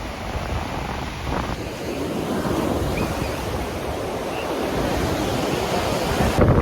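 Ocean surf breaking and washing up a beach in a steady noisy swell, with wind buffeting the microphone and a loud gust of wind noise near the end.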